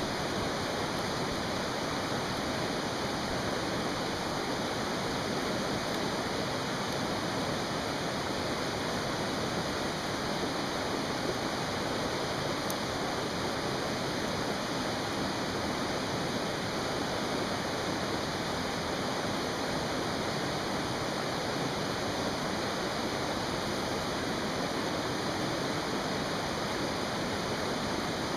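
Mountain stream rushing steadily, with a few faint pops from a campfire.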